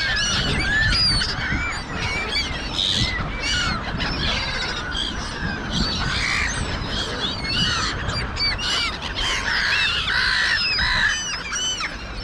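A flock of gulls calling over one another, many short arched squealing calls overlapping without pause, over a low rumble.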